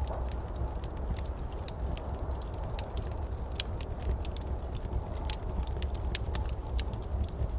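Wood fire crackling in a fireplace: many sharp, irregular pops and snaps over a steady low rumble, with the loudest pops a little past the middle.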